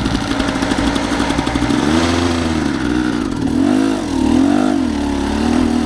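Dirt bike engine running steadily, then revved up and down in several short blips from about two seconds in.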